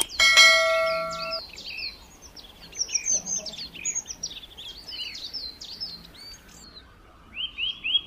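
Small birds chirping: many short, quick chirps, with a run of evenly repeated chirps near the end. At the start there is a short bell-like chime that rings for about a second.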